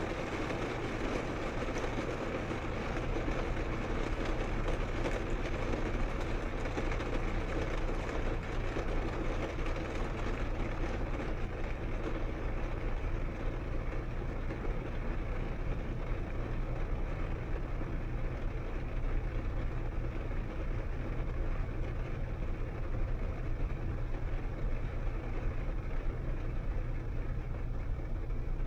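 2013 Volvo S60 T6's turbocharged straight-six with an aftermarket Heico exhaust, cruising steadily on a wet road: an even engine and exhaust drone under a constant hiss of tyres on wet tarmac.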